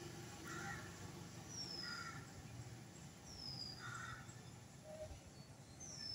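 Birds calling faintly: three short calls, and three times a high, thin whistle that falls in pitch.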